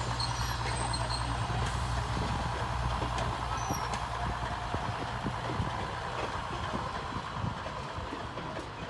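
Running sound inside a moving railway carriage: a steady low drone that fades out about halfway through, over a noisy wheel-and-body rattle with scattered knocks.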